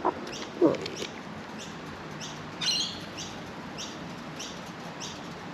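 A small bird chirping over and over, short high chirps that fall in pitch, about two a second, with one louder, fuller call near the middle. A single short, loud, lower-pitched sound comes just over half a second in.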